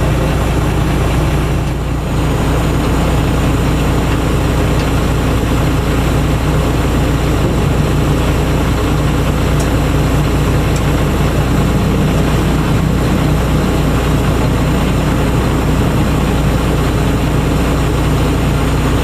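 A heavy engine idling, a steady, unchanging low hum.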